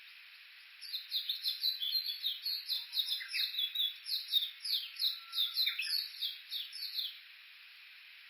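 Japanese bush warbler giving a long, rapid run of short repeated calls, about five sharp falling notes a second. It starts about a second in and stops near the end, the kind of excited calling series that follows or replaces the usual 'hoo-hokekyo' song.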